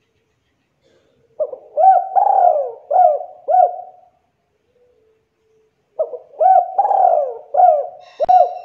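Spotted dove cooing in two phrases of several rounded coos each, the first starting about a second and a half in, the second about six seconds in, with a click near the end.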